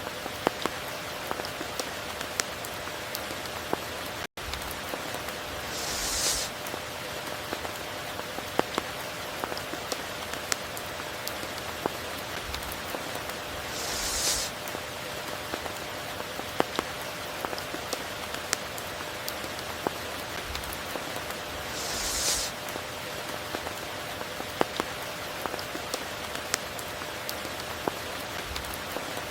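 Steady rain falling, with individual drops ticking sharply through an even hiss and a faint steady hum underneath. A brief high hissing swell comes about every eight seconds, and the sound cuts out for an instant about four seconds in.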